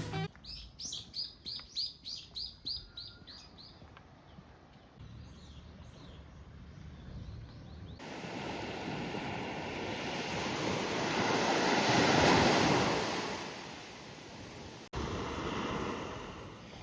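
A bird gives a quick series of a dozen or so repeated high chirps, about three a second. Then a wave washes up the shore, swelling and fading away, followed by more surf.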